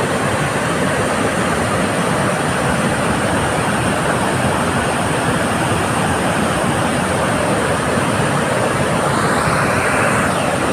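Water rushing out through the open gates of a dam's spillway, a loud, steady, unbroken rush.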